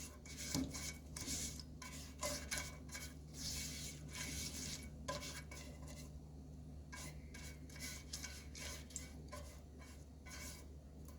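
Faint, irregular scraping and light clinks of a utensil against a cooking pot as vegetable oil is spread around inside it.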